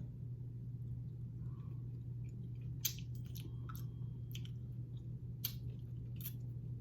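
People chewing and tasting a sour candy, heard as faint wet mouth sounds with a few sharp clicks, over a steady low hum.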